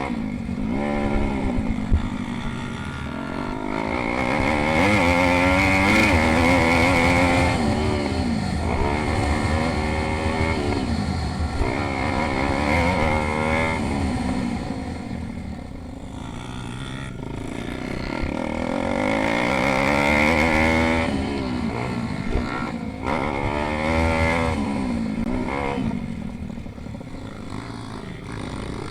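Several pit bikes racing, their small engines revving up and dropping back over and over as the riders work the throttle and shift gears. The engines swell louder as bikes come close, most of all a few seconds in and again about two-thirds of the way through, then fade as they move off.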